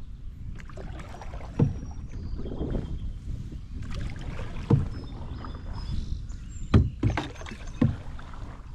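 Solo paddling of a Wenonah Prospector 15 canoe: paddle strokes splashing through the water, with four sharp knocks spaced a second or more apart, over a steady low rumble.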